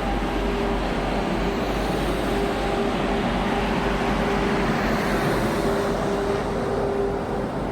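Steady running noise of a locomotive-hauled Indian Railways passenger coach heard from inside: wheels on rails rumbling, with a steady hum.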